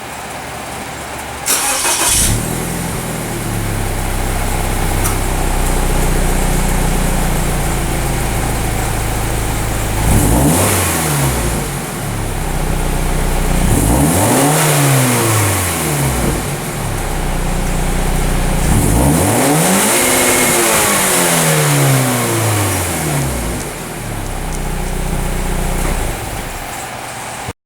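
Scion FR-S flat-four boxer engine through an HKS Legamax cat-back exhaust, starting up about a second and a half in and settling to an idle. It is then revved three times, each rev rising and falling in pitch, the third held longest.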